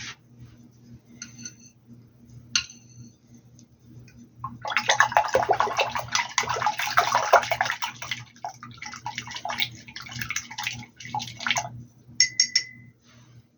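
Water splashing and sloshing for about seven seconds, starting about four and a half seconds in, with a few short clicks before and after, over a low steady hum.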